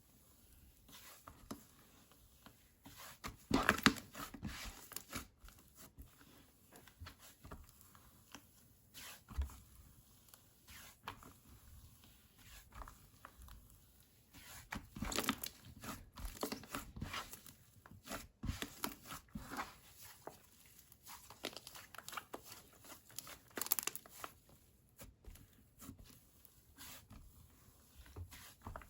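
Slime being worked by hand: squished, stretched and pressed, with crackling and popping clicks that come in louder bursts a few times.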